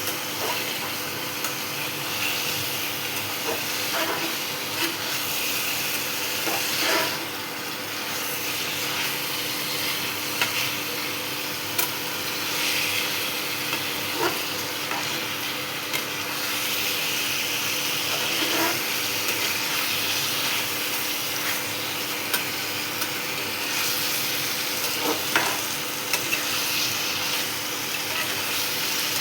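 Spiced chicken sizzling in oil in a kadai, with a spatula scraping and knocking against the pan every few seconds as it is stirred. The masala is being fried down until the oil separates.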